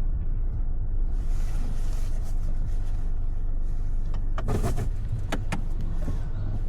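Car driving, heard from inside the cabin: a steady low rumble of engine and road noise, with a few brief clicks and rattles about four and a half to five and a half seconds in.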